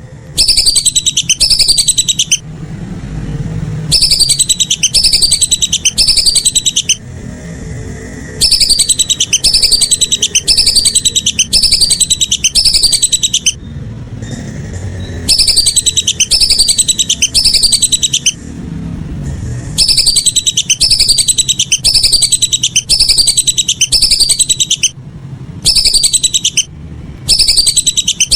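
Whistling duck (belibis) calls: runs of loud, high whistles, each sliding downward, about two a second, broken by short pauses every few seconds, with a low rumble in the gaps. This is a looped lure call.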